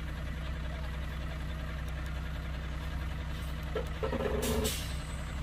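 Heavy diesel machinery engine running steadily with a low rumble. About four seconds in, a short pitched sound with a hiss lasts under a second.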